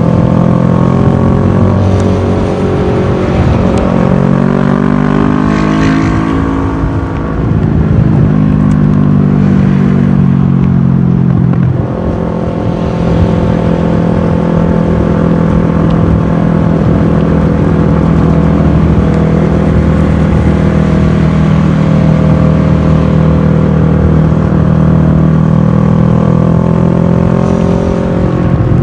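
Kawasaki ER-6f's parallel-twin engine through a full Akrapovic exhaust, heard from a camera mounted on the riding bike. The revs dip and climb in the first few seconds, then fall away over several seconds, and from about halfway the engine holds a steady note at cruising speed.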